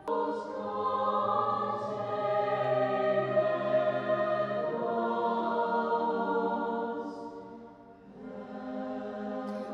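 Choir singing long held chords, briefly fading about eight seconds in before swelling again.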